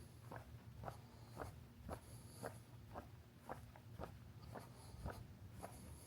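Footsteps of someone walking at a steady pace, about two steps a second. A faint high-pitched pulsing sound comes and goes in the background.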